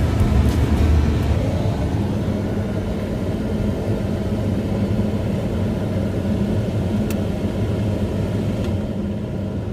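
A truck's engine running steadily, heard from inside the cab, a little louder in the first second or so; a single sharp click about seven seconds in.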